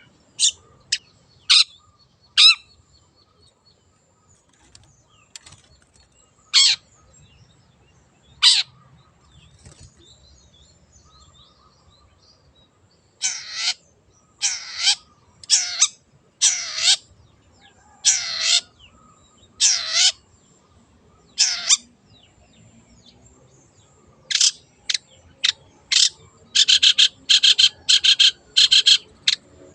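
Long-tailed shrike (cendet) giving harsh calls: a few short sharp calls early on, then a run of longer calls about every second and a half, and near the end a fast, closely spaced string of calls.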